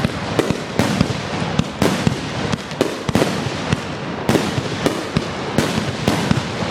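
Aerial fireworks going off in a rapid, unbroken barrage: sharp bangs two or three a second over a constant rumbling crackle.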